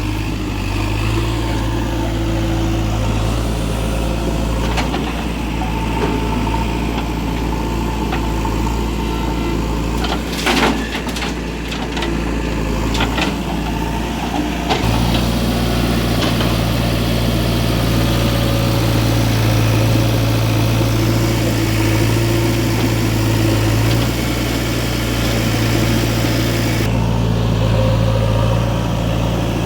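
Heavy diesel engine running steadily, with a short cluster of clanks and knocks about ten to thirteen seconds in.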